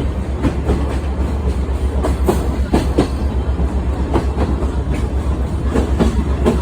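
Sightseeing trolley train running on the track: a steady low rumble with irregular clicks and knocks from the wheels.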